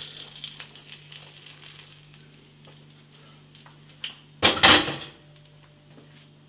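Beef burger sizzling faintly on a griddle, dying away, then a loud brief clatter of kitchenware about four and a half seconds in, over a steady low hum.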